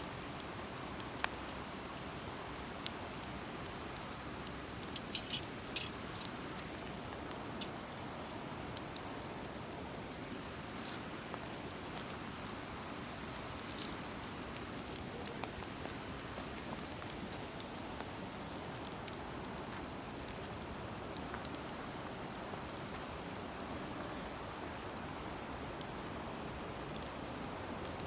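Wood campfire crackling, with sharp pops scattered through it (a quick run of them about five seconds in) over a steady hiss.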